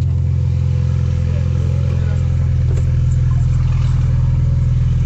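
Tuned BMW F30 328i's turbocharged four-cylinder engine running steadily with a deep, even exhaust rumble; the pitch holds steady, with no rev rise and no pops.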